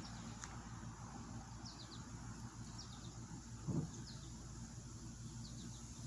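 A small bird chirping in short groups of three or four quick high notes, four times. A single soft low thump sounds just before the fourth group.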